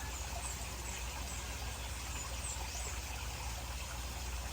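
Steady trickle of water draining out of a pond's overflow pipe, over a low steady hum.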